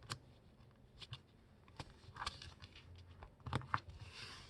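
A sheet of paper being turned over and folded by hand: a few faint taps and short soft rustles as the paper is handled and creased.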